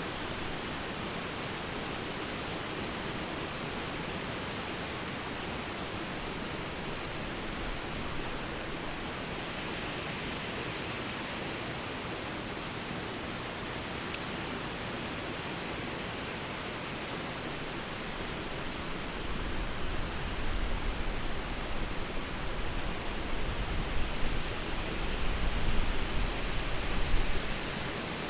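Daytime forest ambience: crickets trill in a steady high drone over an even hiss. Past the two-thirds mark an uneven low rumble comes in and swells in gusts.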